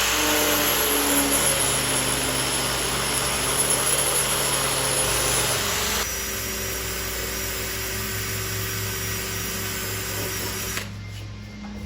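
Angle grinder with a 120-grit flap disc grinding down welds over filled mirror-mount holes in truck door sheet metal. The grinding noise drops about six seconds in, and the grinder shuts off about a second before the end.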